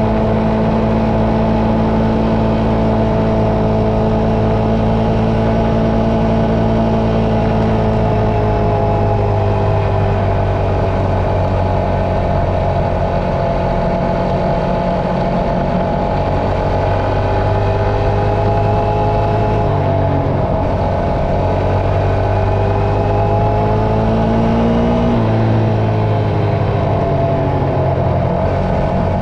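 Dirt bike engine running steadily, its pitch drifting slowly up and down with the throttle, with a change in the low drone about eight seconds in and again near the end.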